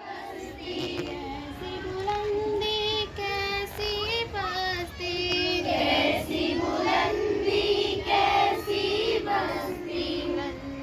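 A group of girls singing a song together in unison, the voices rising and falling in a steady melody.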